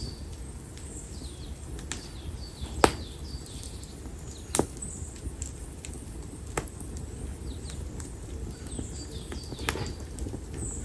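Open fire of split konara oak firewood burning, crackling with a handful of sharp pops, the loudest about three seconds in, over a steady low rush of the flames. Short high chirps come and go in the background.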